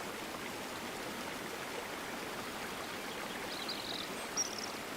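River water flowing steadily, an even rushing sound, with a few short bird chirps about three and a half to four and a half seconds in.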